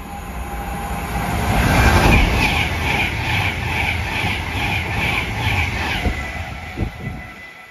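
Avanti West Coast Pendolino express train passing through the station at speed: a rising rush of wheel and air noise, then a regular beat about twice a second as the bogies pass, fading out near the end as the train clears the platform.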